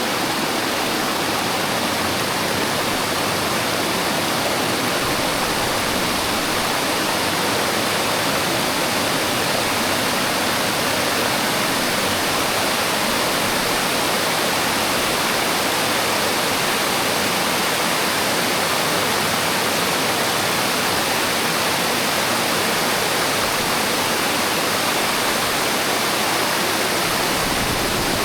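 Waterfall roar heard from the top of the falls, a steady rush of water with no change in level.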